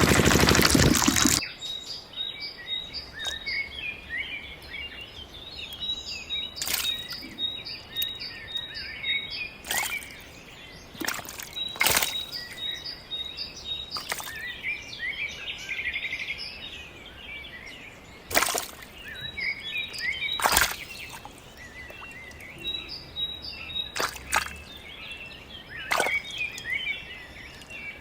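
A small pump engine running cuts off about a second in. Then birds chirp steadily, with a repeated short high note and occasional sharp clicks scattered throughout.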